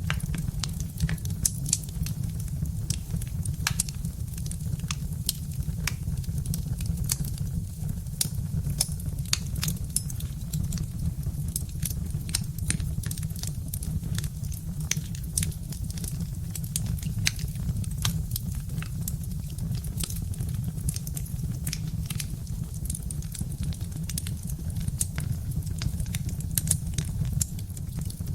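Birch-wood fire crackling, with many sharp pops and snaps scattered irregularly over a low steady rumble.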